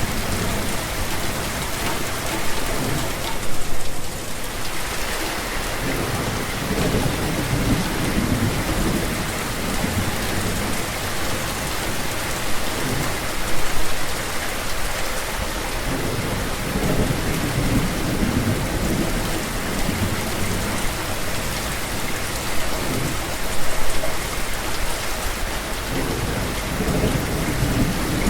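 Steady heavy rain falling, with a low rumble underneath. Brief louder swells come about every ten seconds in a repeating pattern.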